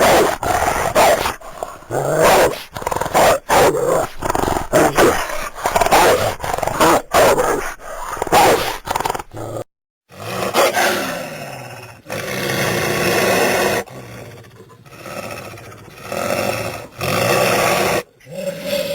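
Cartoon bulldog sound effects: a rapid string of short, sharp barks and snarls. After a brief break about ten seconds in, longer drawn-out growls and roars follow.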